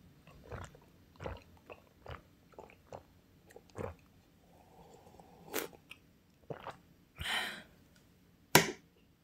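A person chewing and eating, with irregular soft crunches and wet mouth clicks, a short breathy rush a little past seven seconds in, and one sharp knock near the end.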